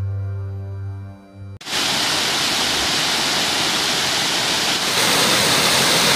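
Soft background music of sustained tones, cut off about a second and a half in by the loud, steady rush of water pouring over the stepped face of a stone weir.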